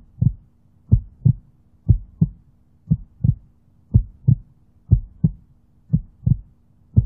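Heartbeat sound effect: paired low thumps in a lub-dub rhythm, about one beat a second, over a faint steady hum.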